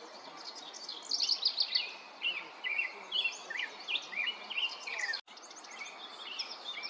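Small songbird singing in high, quick chirping phrases: a fast run of notes about a second in, then varied short chirps. The song breaks off suddenly a little after five seconds, and fainter chirps follow over a steady outdoor hiss.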